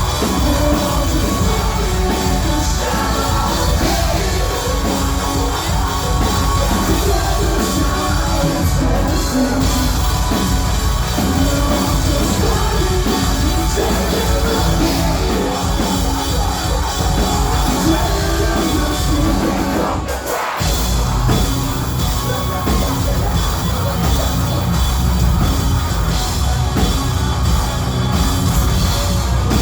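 Loud live heavy rock band playing, with drums, guitars and sung vocals. The whole band cuts out for a split second about twenty seconds in, then comes straight back in.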